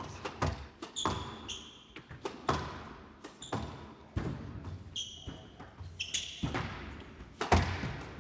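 Squash rally: the ball cracking off rackets and the walls about once or twice a second, with court shoes squeaking sharply on the floor between shots.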